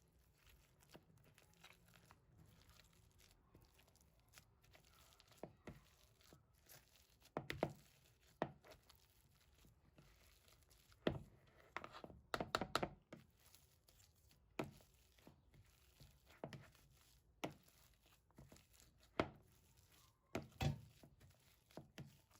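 Irregular kitchen handling sounds during food preparation: scattered light knocks, taps and rustles, with a few louder clusters of clicks.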